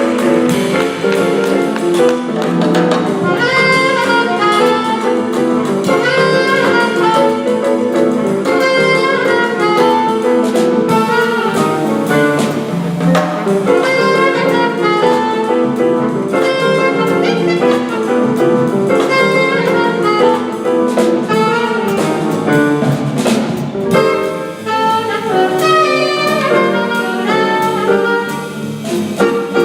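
Live jazz combo playing: an alto saxophone running quick lines over piano chords and drums.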